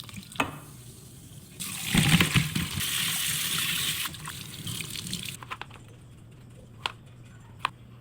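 Water running for about four seconds, starting about a second and a half in. A few sharp clicks follow near the end.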